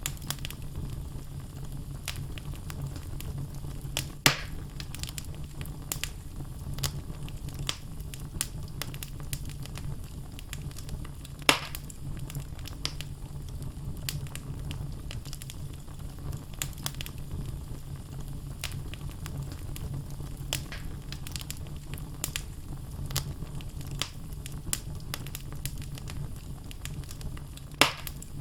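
Wood logs burning in a fireplace, crackling steadily over a low rumble of flame, with many small snaps and three louder pops spread through.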